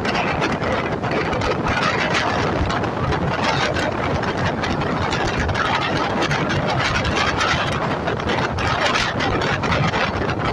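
Express passenger train running at speed: a steady rushing noise with a dense, irregular clatter and rattle.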